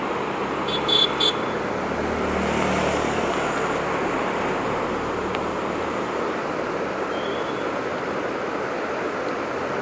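Motorcycle on the move: steady rush of wind and road noise with the engine running underneath. About a second in there are a few short, high beeps.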